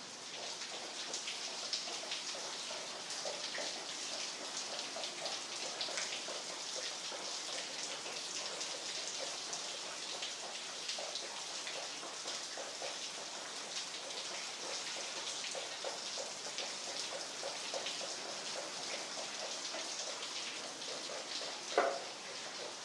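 Very heavy rain falling steadily, with many individual drops ticking close by. One louder knock near the end.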